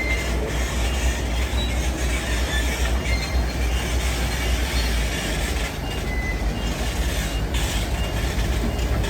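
Heavy diesel construction machinery running with a steady low rumble and clatter, with short high squeaks scattered through it. The low rumble eases somewhat past the middle.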